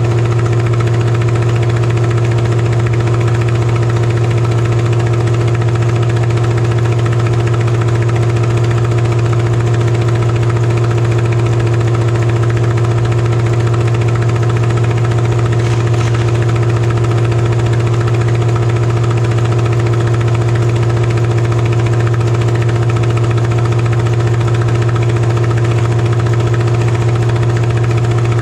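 Demolition derby truck engine idling steadily, with no revving or impacts.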